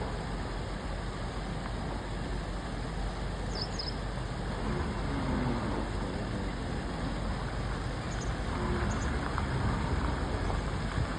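Steady outdoor background noise with a few short, high bird-like chirps, about four seconds in and again near eight and nine seconds.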